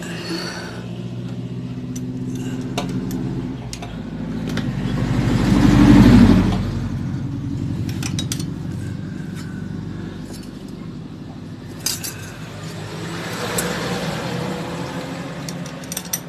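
A motor vehicle engine running steadily in the background, rising to a swell about six seconds in and then easing off, with scattered light metallic clicks of hand tools on the valve adjuster.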